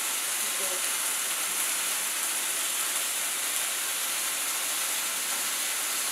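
Chicken-and-onion yakitori skewers sizzling steadily in a hot frying pan.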